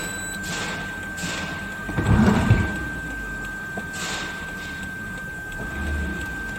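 Toyota Crown Majesta's 4.6 L 1UR-FSE V8 idling, with a steady high tone throughout and a cluster of heavy thuds about two seconds in.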